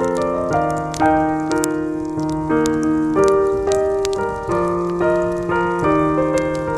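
Soft jazz piano playing a slow run of sustained chords. Sharp crackles and pops from a wood campfire sound faintly underneath.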